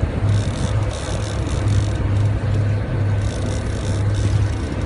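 Motorboat at sea with its engine running: a steady low drone that swells and dips, under a haze of wind and water noise.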